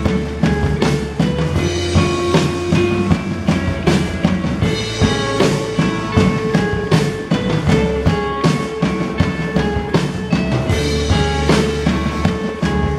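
Rock band playing live in an instrumental passage without vocals: a drum kit keeps a steady beat with bass drum and snare under held bass and guitar notes.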